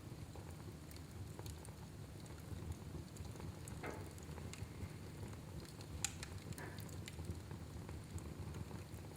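Fire burning in a fireplace: a low steady rumble with scattered crackles and pops, a short hiss about four seconds in and the sharpest pop about two seconds later.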